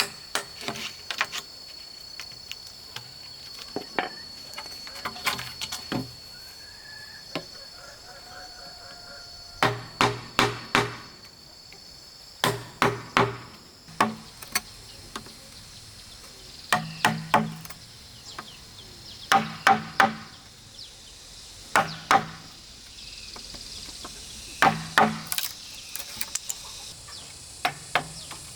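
Bamboo being chopped or hammered by hand: sharp strikes in quick clusters of two to four, about every two to three seconds, each with a short low ring. A steady high insect drone runs through the first third.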